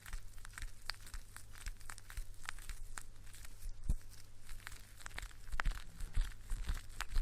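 Close-up ASMR hair-washing sounds: fingers scrubbing and scratching through hair, making an irregular, crisp crackling with many small clicks.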